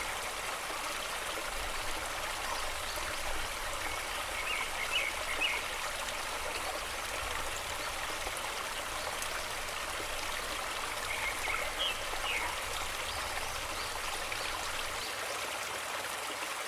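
A stream flowing: a steady, even rush of running water, with a few brief higher-pitched splashes or notes standing out now and then.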